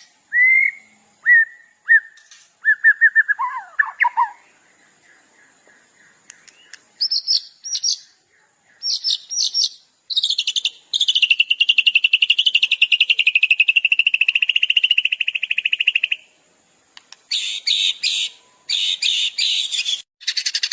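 Songbird song: a run of short rising whistles, a quick falling trill, then buzzy chattering phrases and a long, fast buzzing trill of about six seconds, followed by more chatter.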